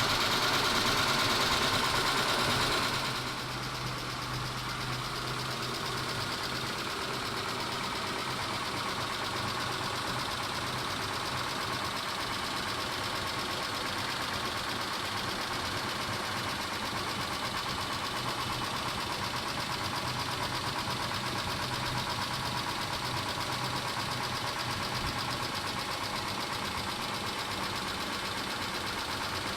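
Mitsubishi 6G72 V6 engine running, louder for about the first three seconds and then settling to a steady idle with a fast, even ticking from the valvetrain, which the owner suspects is hydraulic lifter tick.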